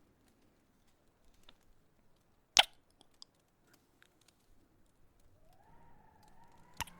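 Close-miked kiss sounds: wet lip smacks, one sharp smack about two and a half seconds in and another near the end, with faint mouth clicks between. Near the end a soft hummed "mm" rises and falls under them.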